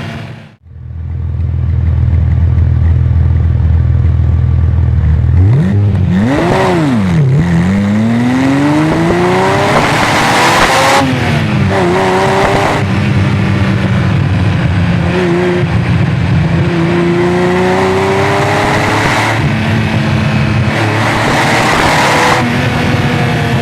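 1990 Ferrari Testarossa's flat-12 engine through a Larini exhaust, under way. It runs steadily for a few seconds, the revs swing up and down twice, then it pulls up through the gears: the pitch rises and drops suddenly at each shift, with a steadier stretch in the middle and another climb near the end.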